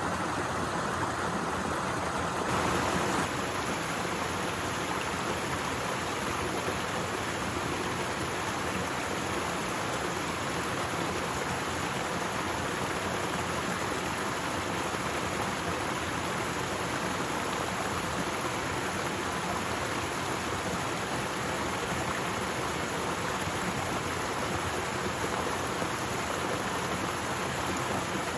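Waterfall running, a steady rushing of falling water, with a slight swell and change in tone about three seconds in.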